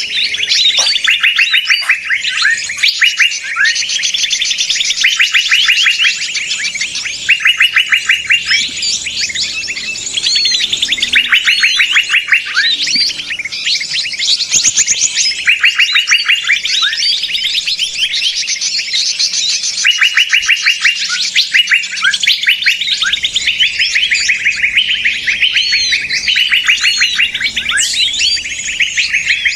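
A chorus of small songbirds giving rapid, overlapping chirping trills, several at once and each lasting about a second. These are the agitated 'ribut' calls used in Indonesian bird-lure (pikat) recordings to draw in other small birds.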